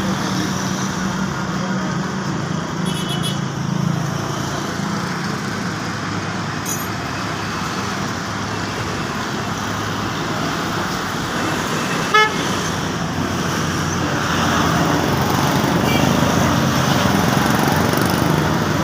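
Ford 4610 tractor's diesel engine running steadily, with one short horn toot a little past the middle.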